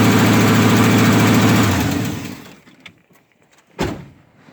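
Truck engine running steadily, just reassembled after a thermostat change, then shut off about two seconds in. A single knock follows near the end.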